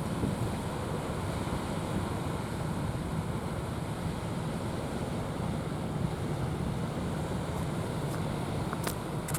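Steady rush of wind and surf, with wind buffeting the microphone. A couple of faint clicks near the end.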